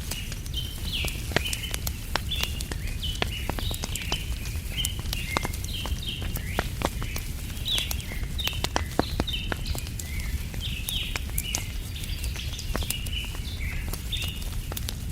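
Wood fire crackling with frequent sharp pops over a steady low rumble, while small birds chirp continuously in quick, overlapping calls.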